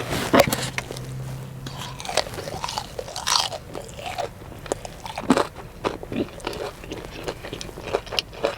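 Close-up biting and chewing of a crispy breaded fried chicken tender: a loud crunch about a third of a second in as the bite is taken, then irregular crunches of the breading as it is chewed.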